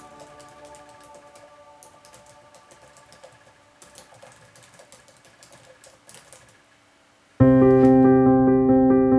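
Faint, irregular clicking of typing on a computer keyboard under the fading tail of a soft electric-piano chord. About two thirds of the way in, loud electric-piano music starts suddenly and becomes the loudest sound.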